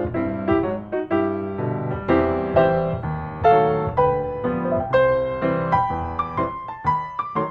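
Solo piano music playing a gentle melody over chords, with notes struck about two or three times a second.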